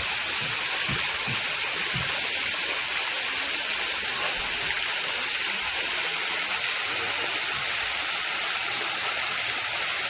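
Waterfall rushing: a steady, even hiss of falling water, with a few low bumps in the first two seconds.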